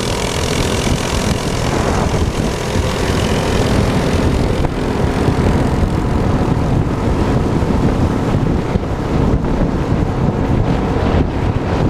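Minibike's small engine running steadily, with wind rushing over the microphone.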